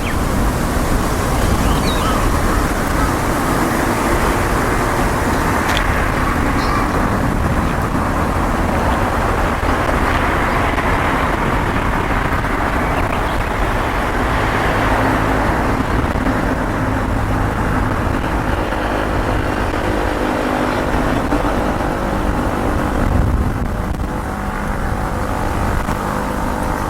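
Steady road-traffic noise from passing cars, with faint engine hum that grows a little stronger near the end.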